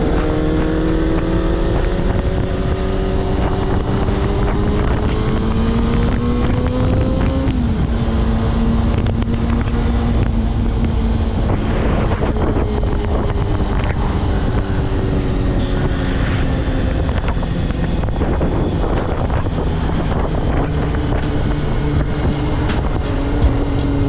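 Honda CBR250RR MC22 four-cylinder motorcycle engine under way, its pitch climbing for several seconds and then falling about seven seconds in, under a heavy rush of wind on the helmet microphone.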